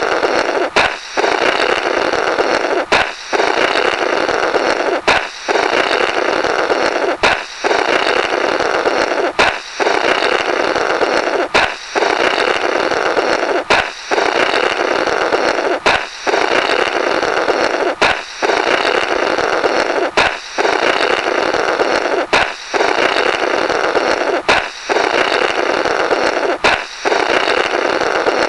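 Comic 'Blorrrt' balloon sound effect on a loop: a sharp balloon pop, then a sputtering raspberry of air blown through the burst rubber. The pair repeats about every two seconds, some thirteen times.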